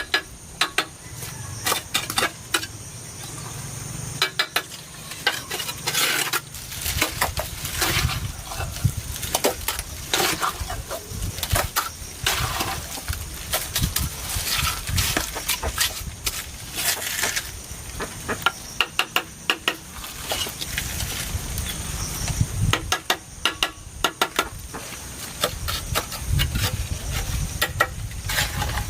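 A long run of irregular sharp clicks and knocks, some in quick clusters, over a faint steady high hiss.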